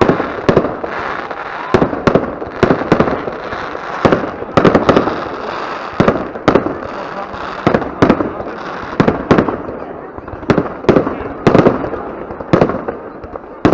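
Fireworks display: a rapid, irregular run of sharp bangs, one or two a second, over a steady crackle.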